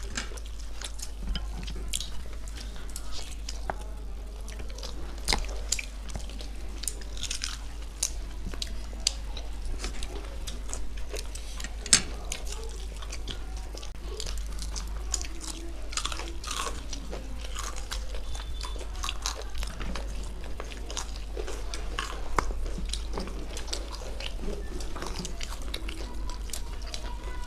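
Two people chewing and biting into crispy fried chicken legs and chowmein, with irregular crunches and clicks of the chewing throughout.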